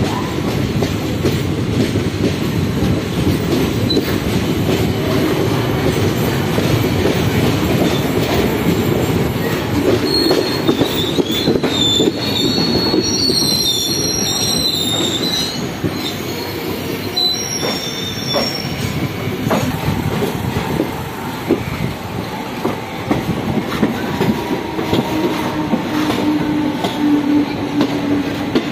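Passenger train running over the tracks with a steady rumble and clatter of wheels over rail joints. High-pitched wheel squeal sets in about a third of the way through and lasts several seconds.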